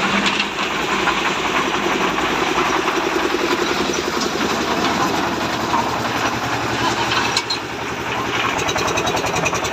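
An engine or motor running steadily, with a fast, even pulsing that grows clearer near the end.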